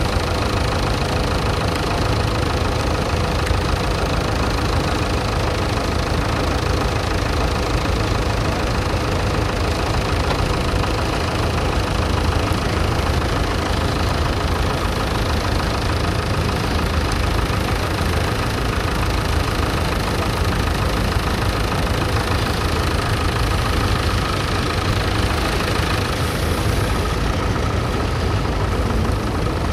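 Vintage tractor engine running steadily, an even low rumble with a constant hum over it.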